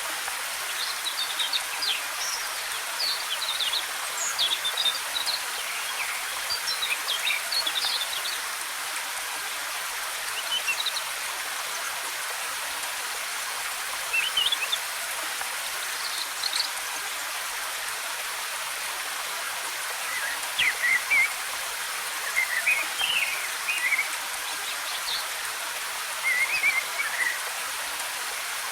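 Waterfall rushing steadily, with small birds chirping in quick bursts of high notes over it. The chirping is busiest in the first eight seconds and again from about twenty seconds on.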